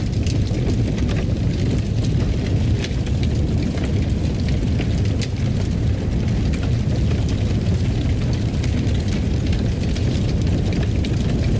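Fire burning in a fireplace: a steady low rumble with frequent small crackles and pops scattered through it.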